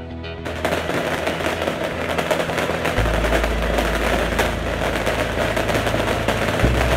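Dense, continuous barrage of bottle rockets (rocket fireworks) firing and cracking in rapid overlapping bursts, starting about half a second in. A heavy low rumble joins underneath about three seconds in.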